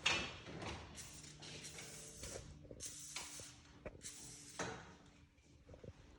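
Aerosol lubricant sprayed onto a garage door torsion spring in several short hissing bursts, with a few small clicks between them.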